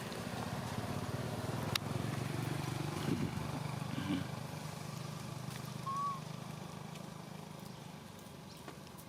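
A vehicle engine running steadily, louder over the first few seconds and then fading away. There is a sharp click about two seconds in and a brief high squeak near six seconds.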